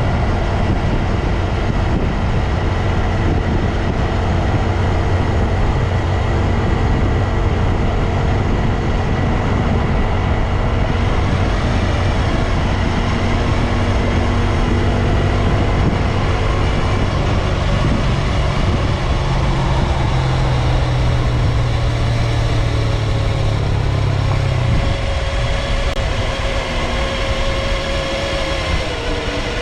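Honda Grom's small single-cylinder engine running under way, with wind and road noise over it. The engine note holds steady, steps up in pitch about two-thirds of the way through, then drops away near the end.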